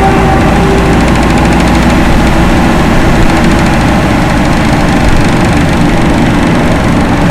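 Loren Cook 100 ACEM centrifugal roof exhaust fan running on its newly replaced motor, set to a reduced speed, with a steady rushing drone and low rumble. A faint hum in it fades out about two seconds in.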